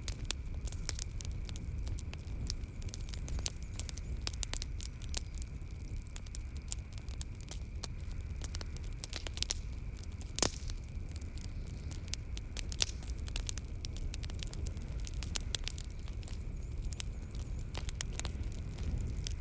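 Wood fire crackling in a fireplace: irregular sharp pops and snaps, one louder pop about ten seconds in, over a steady low rumble of the burning fire. A faint steady high tone runs underneath.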